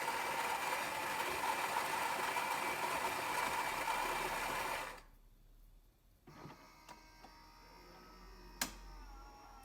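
Saeco Xelsis SM7683/10 automatic espresso machine's built-in grinder grinding beans for a ristretto, a loud steady grinding with a whine, cutting off about five seconds in. After it, quieter mechanical whirring from the machine, with a single sharp click near the end.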